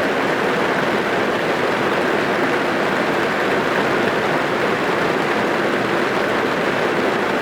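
Steady rain drumming on a car's roof and windows, heard from inside the car as a dense, even patter.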